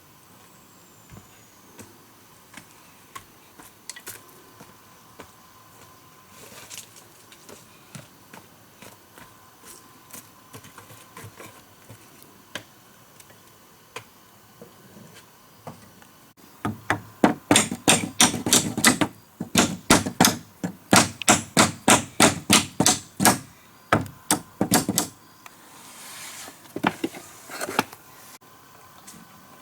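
Hand-tool strikes on timber: scattered faint taps, then a fast run of loud sharp blows, about three a second for some eight seconds, and a few more near the end.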